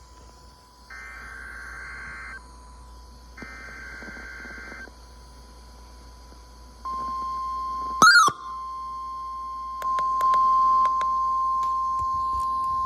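NOAA Weather Radio alert signalling: two short bursts of buzzy digital data warble (the SAME alert header) over a steady tone, a brief loud chirp about eight seconds in, then the steady weather-alert tone, louder, for the last few seconds. These are the alert signals that announce a tornado watch message.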